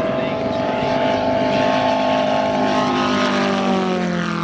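Moki 250cc five-cylinder radial engine of a giant-scale RC Corsair running, with a strong, even engine note that falls in pitch near the end.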